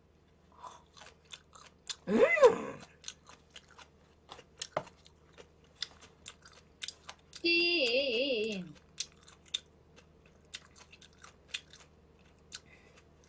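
Close-miked chewing of mustard-leaf kimchi, with wet crunches and mouth clicks. About two seconds in a short, loud vocal sound rises and falls in pitch. At around seven and a half seconds a warbling tone sounds for about a second.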